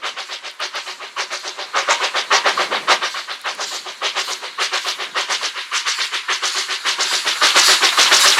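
A train running past with a fast, even rhythmic clatter, about five beats a second, growing louder near the end.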